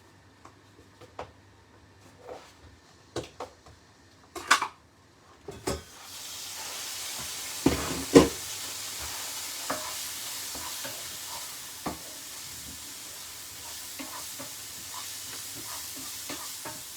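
A few light clicks and knocks, then about six seconds in a steady sizzle starts as pineapple fries in a hot pan. A loud knock of a utensil on the pan comes about two seconds later, with scattered scrapes of stirring over the sizzle.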